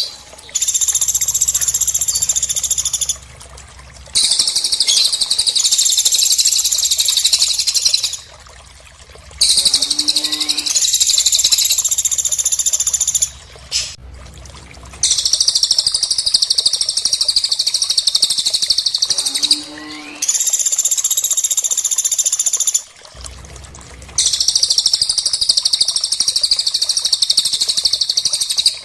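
Small songbirds, cililin and pelatuk, singing a very high, rapid, chattering trill in long phrases of several seconds, with short pauses between them. Twice a lower, sliding call cuts in.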